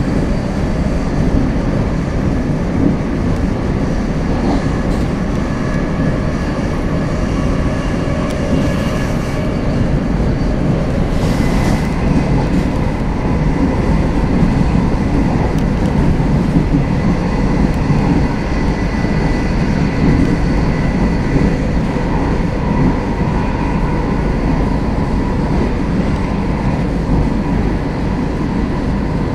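Steady running noise of a passenger train at speed, heard from inside the carriage, heaviest in the low end, with a brief hiss about eleven seconds in.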